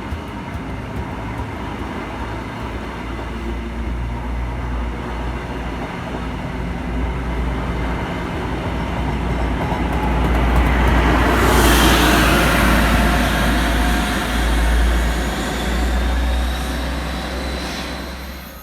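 A train passing through a station, with a steady low rumble. It builds to a loud, rushing peak about eleven to twelve seconds in, then fades toward the end.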